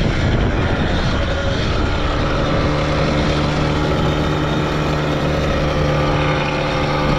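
Motorcycle engine running under way, its pitch shifting in the first couple of seconds and then holding steady.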